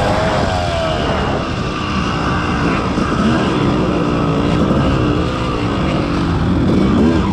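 Yamaha YZ250 two-stroke motocross engine revving up and down over and over as the bike is ridden hard around the track.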